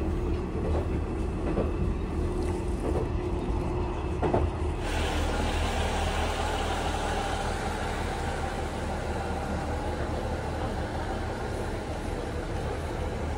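Train noise: inside a moving diesel railcar, a steady low rumble and hum with a few clicks of the wheels over rail joints. About five seconds in it changes abruptly to the stopped train heard from the platform, its engine running with a steady low rumble under an even hiss.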